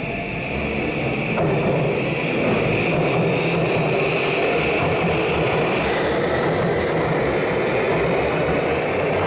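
Electric commuter train running, its motors giving a thin whine that rises slowly in pitch as it picks up speed. In the second half the wheels click rhythmically over rail joints.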